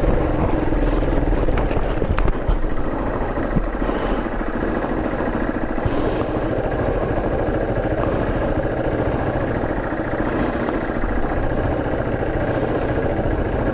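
A vehicle driving, its engine and road noise a steady, continuous rumble. A soft swish recurs about every two seconds.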